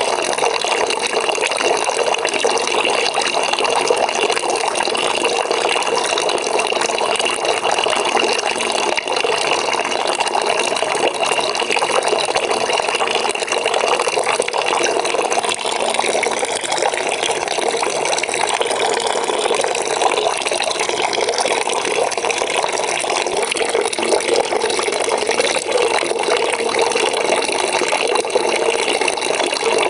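Water pouring steadily into a bucket as it fills, an even rushing splash, with a faint high ring in it that fades about halfway through.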